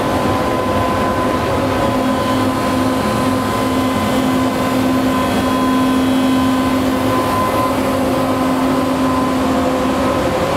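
Loud, steady running noise of a boat's propulsion machinery: Caterpillar 3612 diesels and Rolls-Royce Z-drive reduction gearing under power, a dense drone with a few steady humming tones over it.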